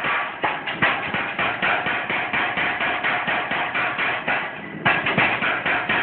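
Metz power hammer striking in a fast, steady rhythm of about four blows a second, with a brief letup shortly before the end and then a hard blow as it picks up again.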